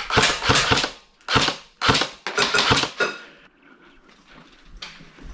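Airsoft gun firing in rapid bursts of sharp clicks, about four bursts in the first three seconds, then a lull and one more burst near the end.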